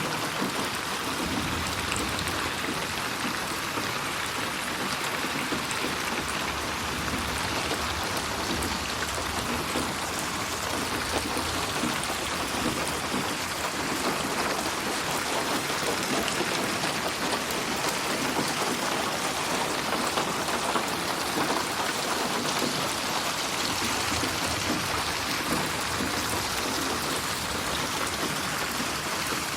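Steady rain falling on a surface, a dense even patter of raindrops.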